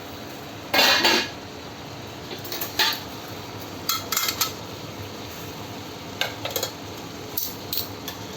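Kitchen utensils and dishes clattering: five short bursts of metal and crockery clinks, the loudest and longest about a second in.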